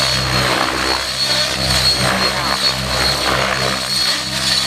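Radio-controlled model helicopter flying flips: a steady high motor whine over the whoosh of the rotor blades, which swells and fades as the collective pitch changes through each flip.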